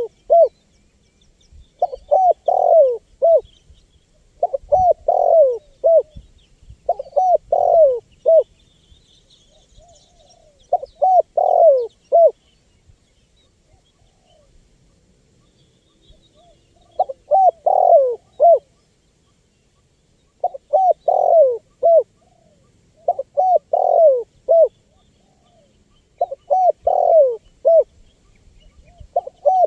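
Spotted dove (tekukur) cooing: repeated phrases of a few mellow, slightly bending coo notes, one phrase every two to three seconds with a longer pause near the middle. Faint high chirps of small birds sound behind.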